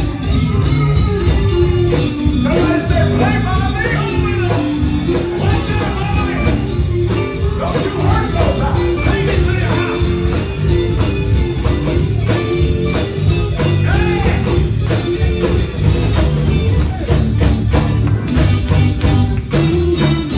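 Live gospel band playing, with electric guitar, bass, drums and tambourine, and voices singing over it.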